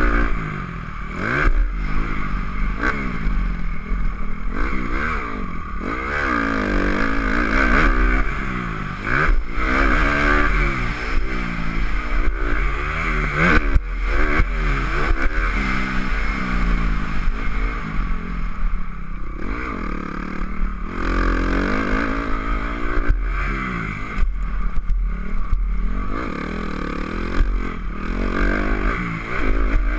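Honda CRF250R dirt bike's single-cylinder four-stroke engine being ridden hard, revving up and dropping back over and over through the gears, with steady wind noise and scattered clattering knocks.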